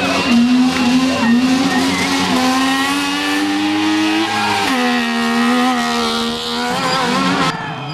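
Race car engine at high revs, climbing in pitch and dropping back several times as it shifts through the gears. The sound changes abruptly shortly before the end.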